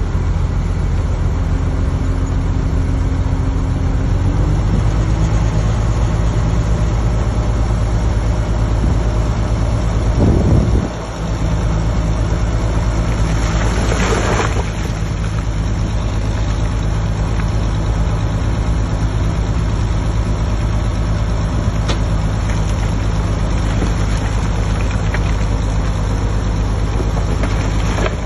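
Heavy diesel engine of earthmoving machinery running steadily, with a brief loud surge about ten seconds in and a short hiss about fourteen seconds in.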